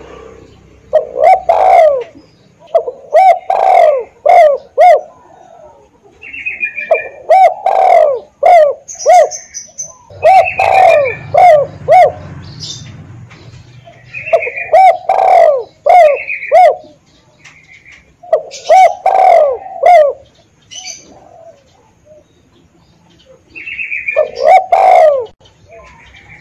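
Spotted dove (tekukur) cooing: about seven loud phrases, each a run of several low, rhythmic coos, with short higher chirps between the phrases.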